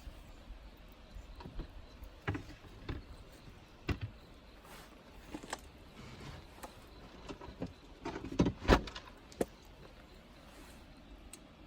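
Irregular knocks and clicks, one at a time, over a low steady background, with the loudest cluster of knocks about eight and a half seconds in.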